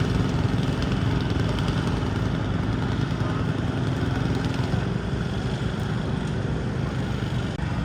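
Garden tractor engine running hard under load, pulling the weight sled. A steady tone in it drops out about five seconds in.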